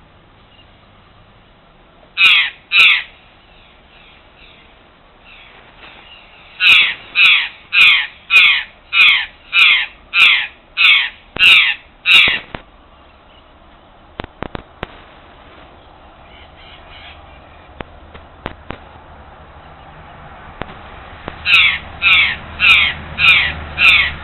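A bird giving loud, harsh caw-like calls in runs: two near the start, then about nine at roughly two a second, then another run of about six near the end. A few short sharp clicks fall in the gap between the runs.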